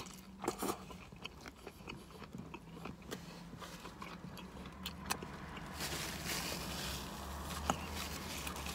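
Close-up chewing of a crispy fried chicken sandwich: irregular wet mouth clicks and crunches over a low steady hum. Near the end comes a soft rustle of a paper napkin wiping the face.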